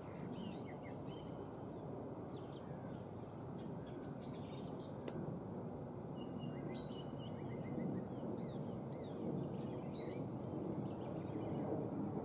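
Small birds calling and singing, many short chirps and trills, over a steady low background noise, with one faint tick about five seconds in.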